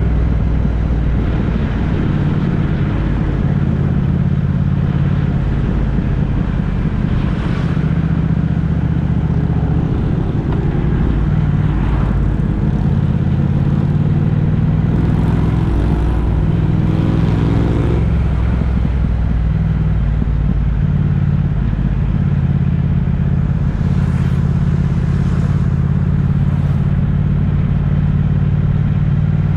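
Motor vehicle on the road, with a steady engine hum and road noise; about halfway through, the engine pitch rises as it accelerates.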